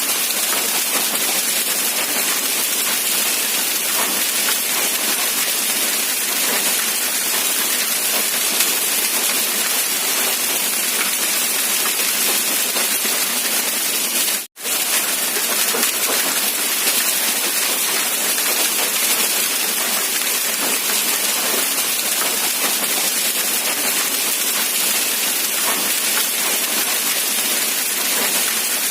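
Steady rain falling, an even hiss without distinct drops. It cuts out for a split second about halfway through, then carries on unchanged.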